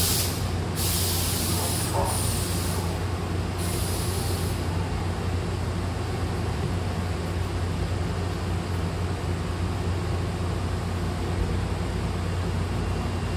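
A Hankyu train standing at the platform with its doors open: a steady low hum from the car's equipment, with three bursts of compressed-air hiss in the first five seconds.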